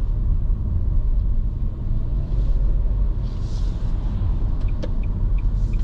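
Steady low rumble of a car running, heard from inside the cabin, with a few soft rushes of noise. Near the end a light regular ticking starts, about three ticks a second.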